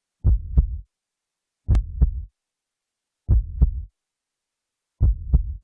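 Heartbeat sound effect used to build suspense before a winner is announced: four low double thumps (lub-dub), one about every one and a half seconds, with silence between.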